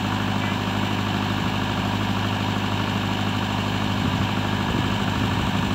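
Heavy diesel engine idling steadily with an even low hum.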